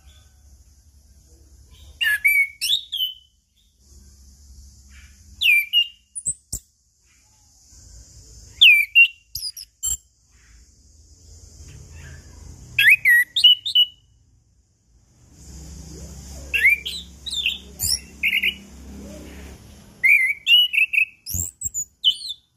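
Orange-headed thrush singing in about six short bursts of quick whistled notes that glide up and down, some very high, with pauses between the bursts where only a faint hiss and low hum remain.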